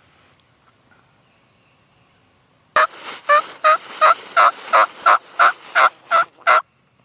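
Wild turkey calling at close range: a loud series of about eleven evenly spaced notes, roughly three a second, starting almost three seconds in and stopping abruptly near the end.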